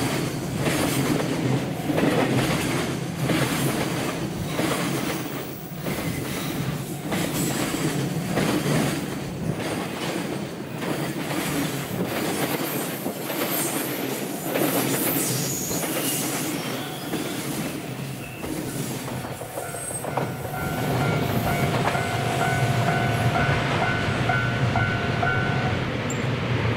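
Container wagons of a long freight train rolling past close by: a steady rumble with a regular clickety-clack of wheels over rail joints. In the last several seconds a steady high-pitched squeal comes in, the wheels squealing on a curve.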